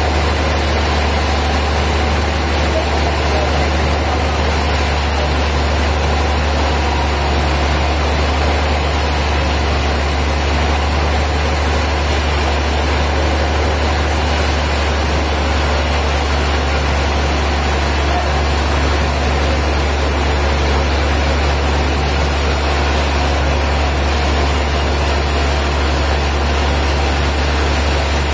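A heavy engine running steadily at a constant speed, with a deep, even low hum and no change in pitch.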